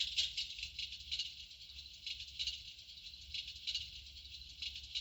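Electric fireplace's built-in crackling-fire sound effect: irregular thin, high crackles and pops, several a second, imitating burning logs.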